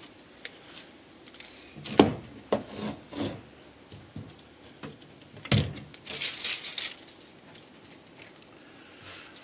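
A few sharp knocks, a louder knock, then a brief high rattle or jingle, from things being handled and set down during hands-on building work.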